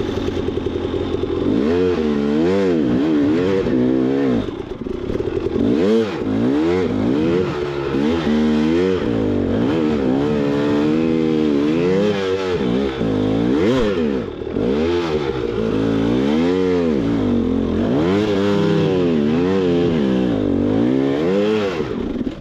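Dirt bike engine revving hard and repeatedly, its pitch rising and falling every second or two as the throttle is worked up a steep trail climb. The engine sound drops away suddenly at the very end.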